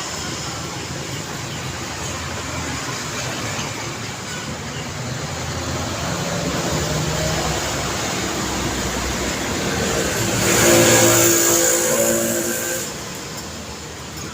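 Continuous road traffic. One vehicle passes close about ten seconds in, its engine the loudest sound, and it drops away suddenly near the end.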